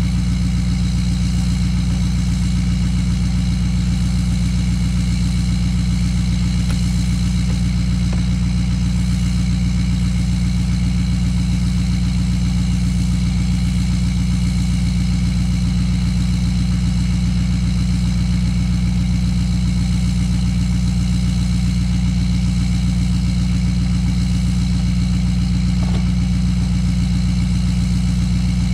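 An engine idling steadily: a constant low hum that does not rise or fall.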